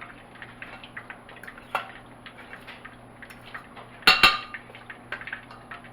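A kitchen utensil stirring and scraping against a bowl while tossing seasoned raw chicken livers to coat them, with small clicks throughout and one loud ringing clink about four seconds in.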